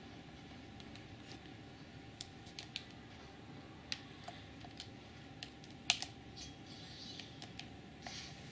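Scattered light clicks and taps at an uneven pace over a steady low hum, with one sharper click about six seconds in.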